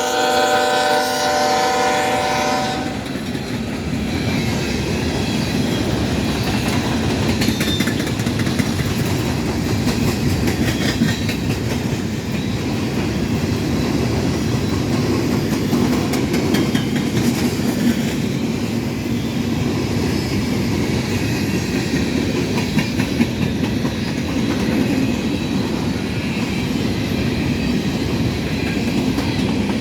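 CSX freight locomotive horn sounding, cutting off about two and a half seconds in, then a train of empty coal hopper cars rolling past with a steady rumble and wheels clattering over the rail joints.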